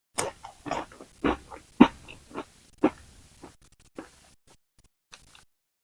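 Close-miked crunching and chewing of crispy french fries: a run of irregular crunches, strongest in the first three seconds, then growing sparser and fainter.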